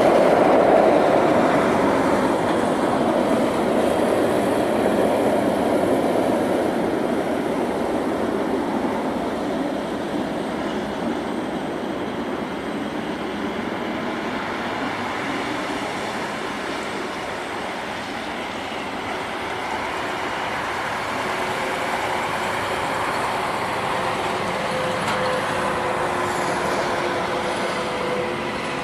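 Tu-160 bomber's four NK-32 afterburning turbofan jet engines at takeoff power: a loud, continuous rushing noise that slowly fades, with faint steady whining tones showing through in the second half.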